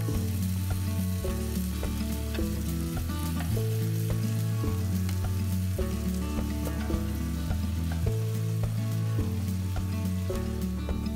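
Onion and lemongrass frying in a wok with a steady crackling sizzle as canned chopped tomatoes are spooned in. Quiet background music with held low notes plays underneath.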